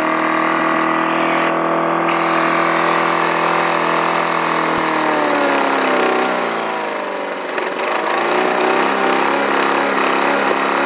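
Lawn mower engine running at a steady high speed, then its pitch sags about six seconds in and it runs unevenly, surging up and down.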